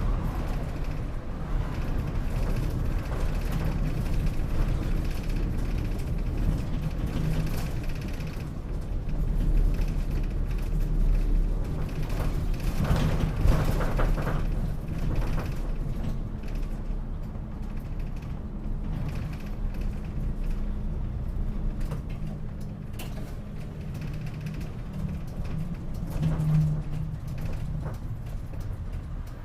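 Inside a moving city route bus: the engine runs with a steady low rumble while interior panels and fittings rattle and creak. A steady hum joins about halfway through.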